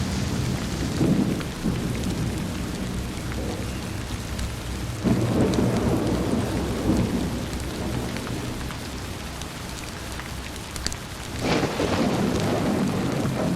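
Thunderstorm: steady rain over a continuous low rumble of thunder, with a fresh peal rolling in about five seconds in and another near the end.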